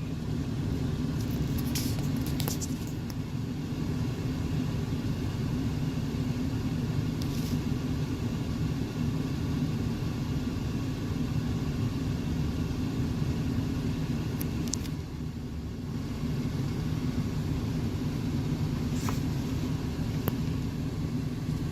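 Steady low rumble of a car driving, heard from inside the cabin, with a few faint ticks and a brief easing off about two-thirds of the way through.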